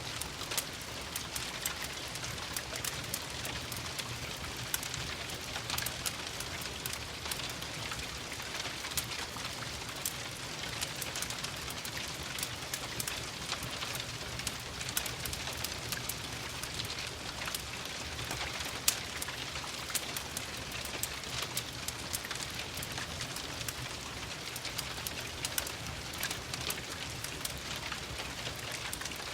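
Steady rain falling, a constant hiss, mixed with a crackling wood fire: many small sharp pops and crackles throughout, one louder pop about two-thirds of the way through.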